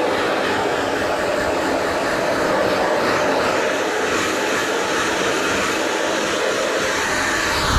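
Handheld hair dryer blowing steadily: an even, unbroken rushing hiss of fan and airflow.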